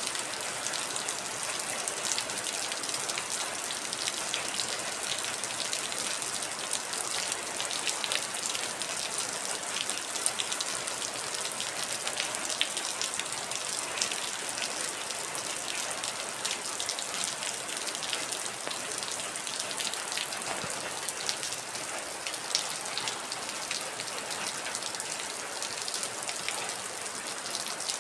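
Steady heavy rain, a constant hiss with many individual drops ticking sharply on a surface.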